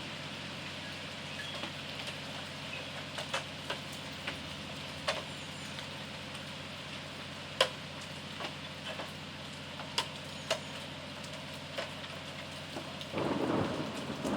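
Steady rain during a thunderstorm, with scattered sharp drops tapping on a hard surface; a low rumble of thunder starts near the end.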